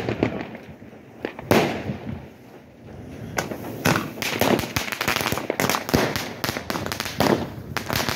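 Fireworks and firecrackers going off. There is a loud bang about a second and a half in, then from about three and a half seconds a rapid, irregular run of cracks and bangs.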